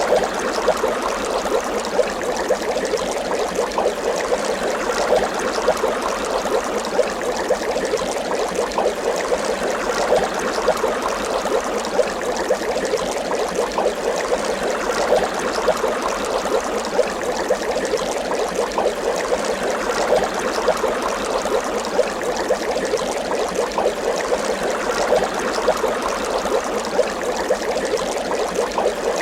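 Water bubbling continuously, a steady dense stream of small bubble pops.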